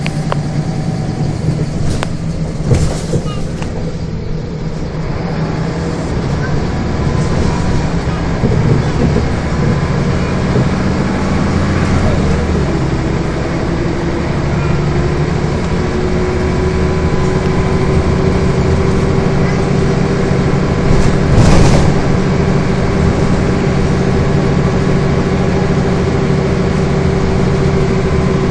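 Scania bus engine running on the move, with a whine that rises slowly about halfway through and then holds steady. A short loud burst of noise comes about three-quarters of the way in.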